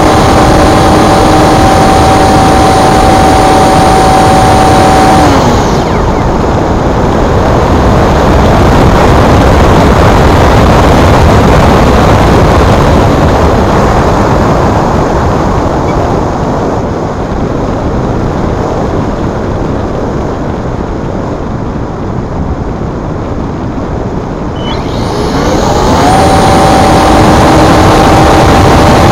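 Electric motor and propeller of a Multiplex Blizzard model glider whining steadily under power. The whine drops away about five seconds in, leaving loud buffeting wind noise, and winds back up again near the end.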